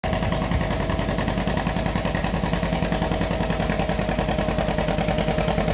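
John Deere B tractor's two-cylinder engine running steadily, with an even, rapid popping beat.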